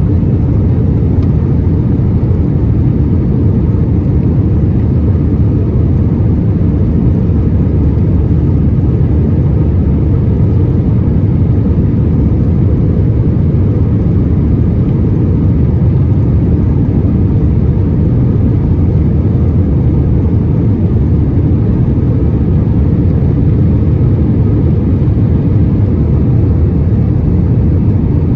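Steady low roar inside the cabin of an Airbus A319 in flight: engine and airflow noise, unchanging throughout.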